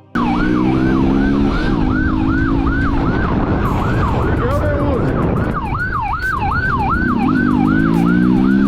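Police siren in a fast yelp, its pitch sweeping up and down about three times a second, with a vehicle engine underneath that revs up twice, about a second in and near the end.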